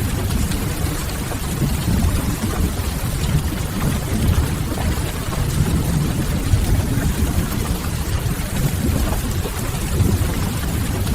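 Steady rain-and-fireplace ambience: rain on a window and a crackling wood fire over a low, even rumble.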